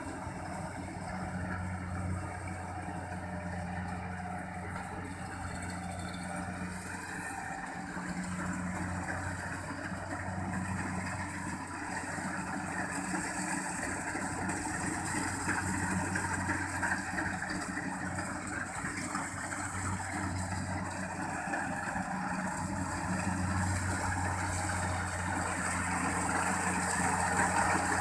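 Kubota rice combine harvester running as it works through the paddy, a steady engine hum with threshing whir over it, growing gradually louder as the machine draws nearer.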